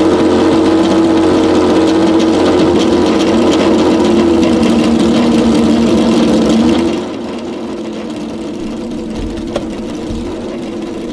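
Porsche 917's air-cooled flat-twelve racing engine running steadily at idle. About seven seconds in, the sound drops to a quieter, steady idle.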